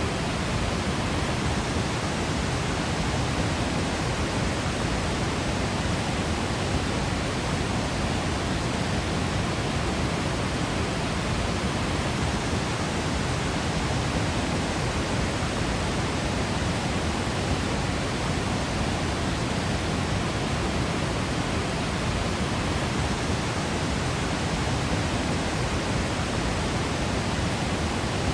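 Waterfall: a steady, unbroken rush of falling water, an even noise heaviest in the low end, with no change in level.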